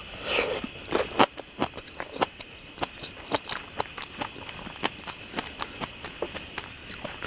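Close-miked eating: irregular sharp, wet mouth clicks and smacks a few times a second as food is chewed, with a short louder noisy burst near the start. A steady, high-pitched pulsing trill runs under it.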